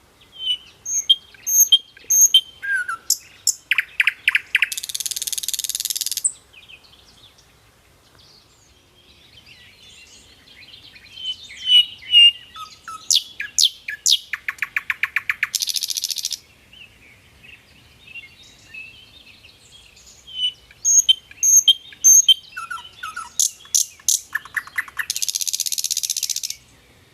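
A songbird singing the same song three times, about ten seconds apart. Each song opens with clear whistled notes and chirps, speeds into a rapid trill and ends in a harsh buzz.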